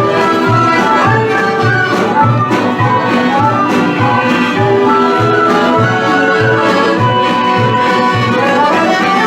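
Vlach folk dance music played on accordion over a steady, even bass beat.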